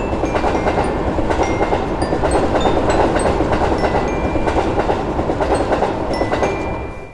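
Train passing: a steady rumble with wheels clattering on the rails, falling away sharply near the end, with scattered short high music notes above it.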